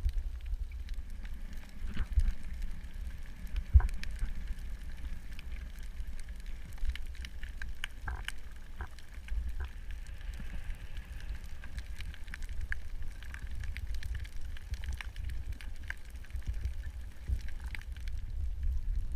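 Underwater ambience: a steady low rumble with many scattered crackling clicks.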